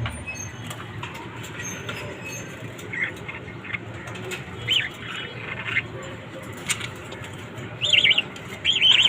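Pet birds giving short chirps every second or two, with wings fluttering.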